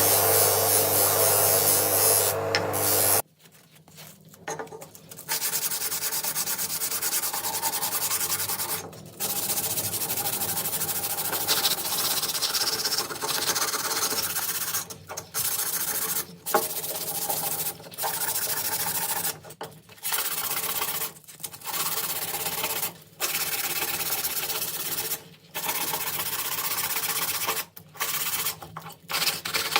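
An electric tool motor hums steadily and cuts off about three seconds in. Then hand sanding of rusty gun parts follows: long abrasive rubbing strokes, each a second or more, with short pauses between them.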